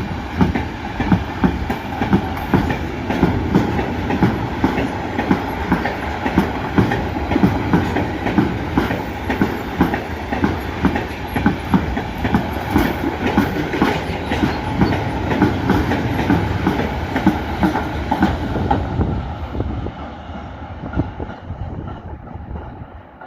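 A train running past, its wheels clattering rapidly over rail joints and points, then dying away over the last few seconds.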